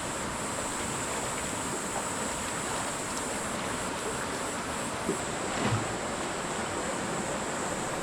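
Mountain stream water rushing steadily, with a short low knock or splash about five and a half seconds in.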